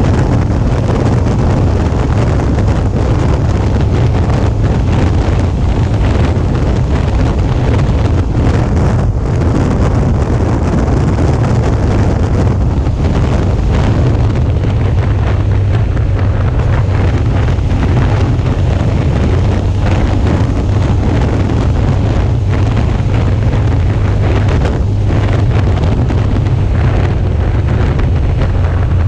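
Steady wind rush buffeting the microphone of a camera on a moving Suzuki V-Strom 650, over a steady low rumble from the motorcycle's V-twin engine while riding.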